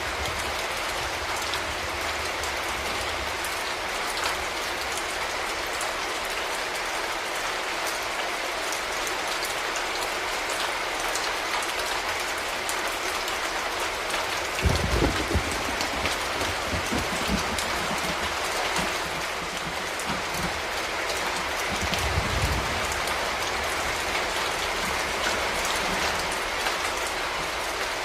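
Steady rain falling. Low rumbles break in about halfway through and again briefly later on.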